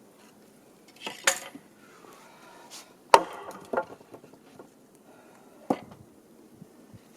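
Scattered sharp knocks and clunks of hardwood firewood pieces being handled. The loudest knock, about three seconds in, rings briefly, and smaller ones follow.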